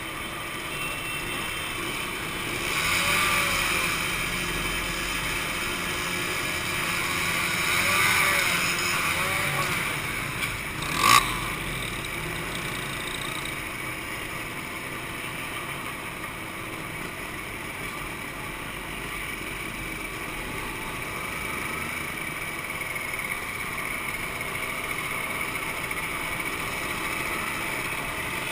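Two-stroke motorcycle engines running, with engine sound swelling and fading twice, around three and eight seconds in. A short, sharp loud sound comes about eleven seconds in.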